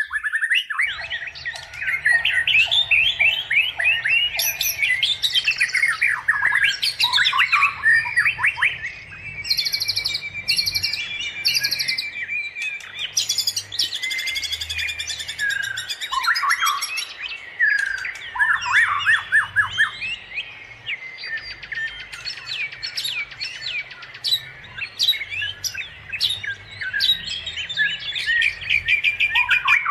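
Several songbirds chirping and singing at once, a dense chorus of short chirps, sliding whistles and rapid trills.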